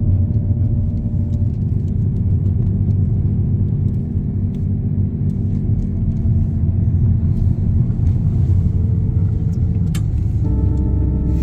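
Steady low road rumble of a car driving, heard from inside the cabin, with engine and tyre noise blended together.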